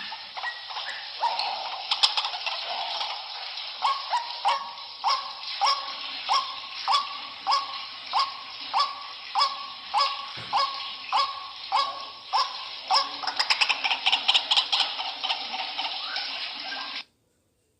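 White-breasted waterhen (ruak-ruak) calling "kru-ak" over and over, a lure recording. The calls come in a steady series, about one and a half a second, then speed up into a faster, busier run. The sound cuts off abruptly about a second before the end.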